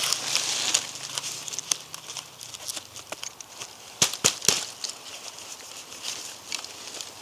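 Dry wood crackling and snapping: a run of small irregular snaps, with three sharp cracks in quick succession about four seconds in.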